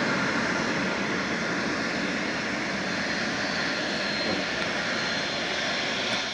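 Embraer Phenom 300 business jet's twin turbofan engines running with a steady roar, a faint high whine coming in about halfway through.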